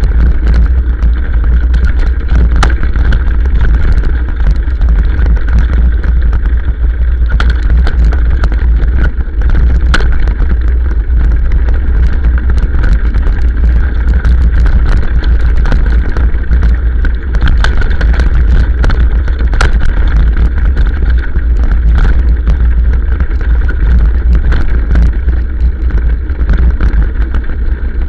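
Motorcycle riding downhill on a rough hill trail: a loud, steady low rumble with many sharp knocks and rattles from the bumps.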